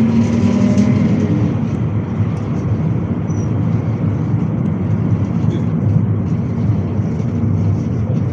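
GAZelle City minibus running along the road, heard from inside the cabin: steady engine and road noise, with a faint whine that fades out in the first second.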